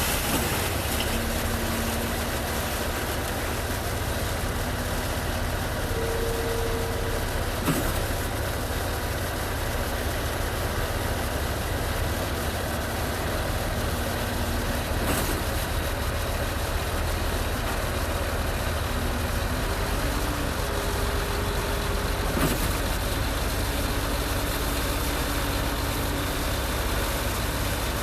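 Concrete pump truck running steadily, heard from high up on its boom, with a few sharp knocks about every seven seconds.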